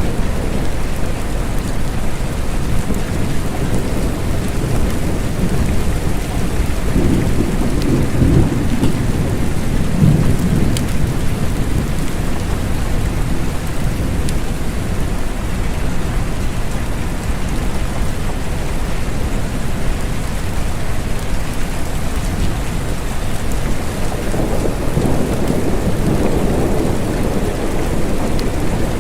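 Steady rain falling, with low rolling rumbles of thunder swelling up twice, about a third of the way in and again near the end.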